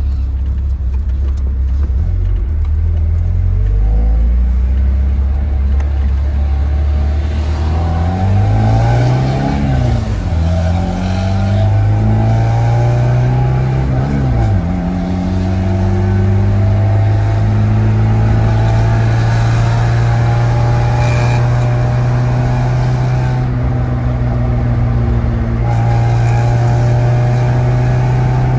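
Tofaş Şahin's four-cylinder engine with an aftermarket exhaust, heard inside the cabin: it idles low, then revs up twice with a gear change between, about eight and twelve seconds in, and then holds a steady drone while cruising.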